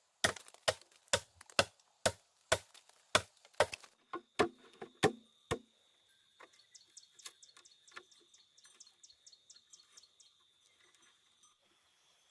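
A tool striking wood in a quick series of about a dozen sharp blows, a little over two a second, stopping about five and a half seconds in. After that a faint, steady, high insect buzz with quick faint ticking remains.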